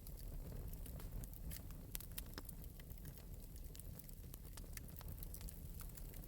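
Wood fire burning in an open metal fireplace, lightly crackling: scattered sharp pops and snaps over a steady low rumble of the flames.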